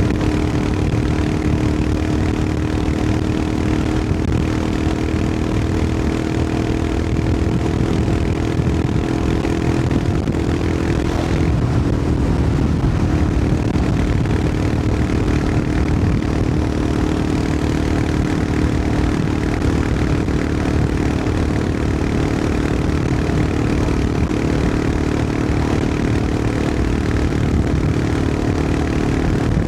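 Royal Enfield Himalayan 411's air-cooled single-cylinder engine running steadily while riding along. Its note drops slightly about eleven seconds in, then holds steady again.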